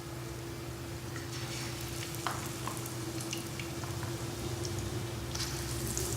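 Besan-battered potato pakoras deep-frying in hot oil: a steady sizzle with scattered crackles and pops that come more often from about a second and a half in.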